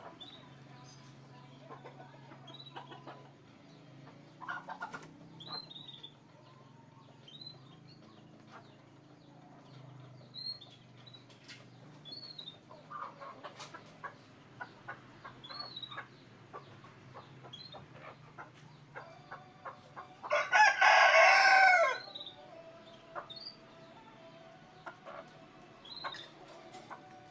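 A rooster crows once, loudly, for about a second and a half, about two-thirds of the way in. Faint short chirps repeat throughout.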